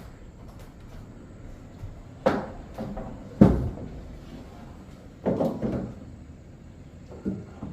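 A few separate knocks and thuds, as of household objects being handled and set down, the loudest about three and a half seconds in, with a short rattling clatter a little after five seconds.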